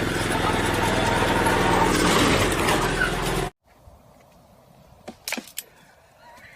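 A motor vehicle running loudly and steadily, with an even haze of noise over it, cutting off suddenly about three and a half seconds in. It is followed by a faint background with a few short clicks.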